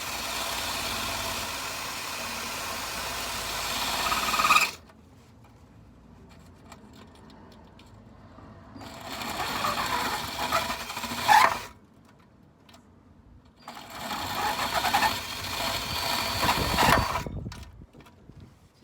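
Handheld electric power tool running in three bursts of a few seconds each, with short pauses between, as it cleans surface rust off a car's underside.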